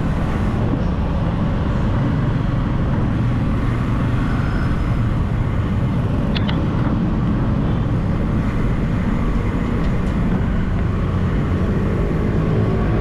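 Road traffic noise heard from a moving bike in city traffic: a steady, dense low rumble of vehicles and road. A brief high-pitched sound cuts through a little after six seconds in.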